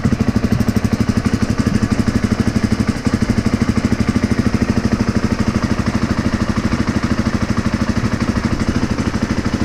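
2017 Husqvarna FE350's single-cylinder four-stroke engine idling steadily through its stock exhaust, with a fast, even pulse.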